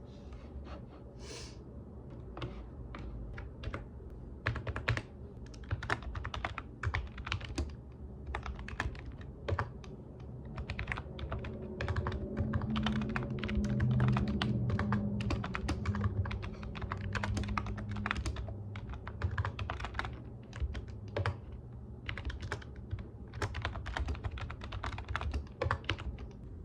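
Typing on a computer keyboard: quick, irregular runs of keystroke clicks with short pauses between runs, over a low hum that swells in the middle.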